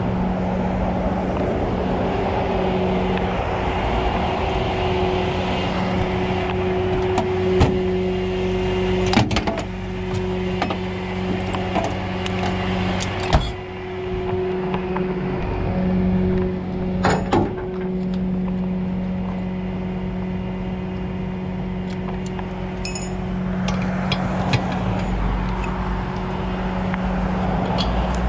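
Tow truck engine idling steadily, with a few sharp clicks and knocks about a third and halfway through.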